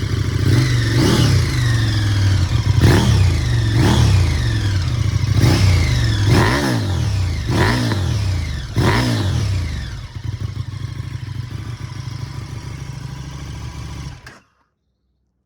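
KTM 1290 Super Duke RR's 1301 cc V-twin on its standard Akrapovič exhaust, blipped up about eight times in quick succession, with a little backfiring. It then settles to idle and is switched off near the end.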